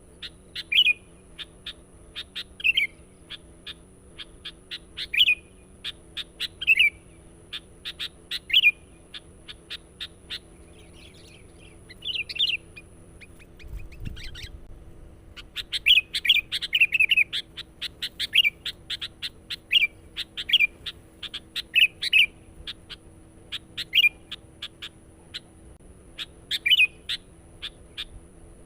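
Sooty-headed bulbul (kutilang) calling insistently: short bright phrases repeated every second or two, with sharp clicking notes in between. A faint steady high whine runs under the first half, and the calls pause briefly about halfway through.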